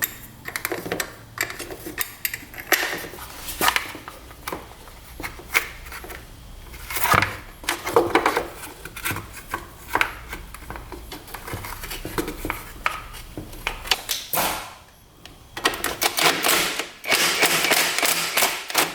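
Hand tools and metal parts clicking and clattering during reassembly work. Scattered sharp clicks and knocks build to a dense run of rapid clicking near the end.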